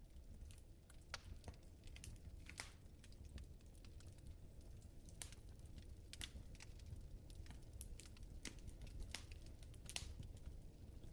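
Wood fire in a fireplace crackling softly, with irregular small pops and snaps over a faint low rumble.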